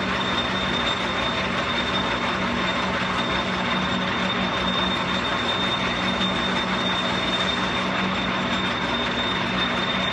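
Metal lathe running steadily while turning down an axle, a constant machine noise with a low hum and a thin high whine. It is a little loud.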